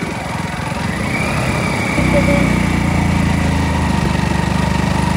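A two-wheeler's engine running steadily under way, heard from the rider's seat as a low, even hum that gets louder about two seconds in.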